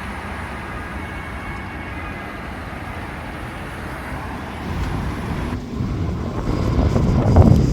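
Road traffic noise, with a steady hum that gets clearly louder in the second half as a vehicle rumbles close by.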